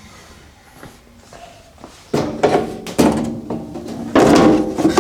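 Toolbox drawer sliding and knocking as wooden inserts are fitted into it. A quiet first two seconds, then scraping and knocks, loudest near the end.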